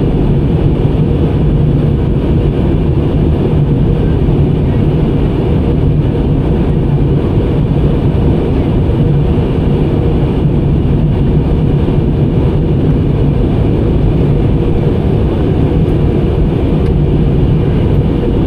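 Steady cabin noise inside a jet airliner descending toward landing: a loud, even rumble with a low drone, unchanging throughout.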